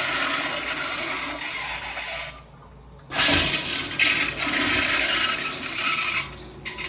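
Toilet flushing: a loud rush of water that fades off about two seconds in, then starts again abruptly about three seconds in and runs on before fading near the end. The toilet is being flushed to test whether it will drain.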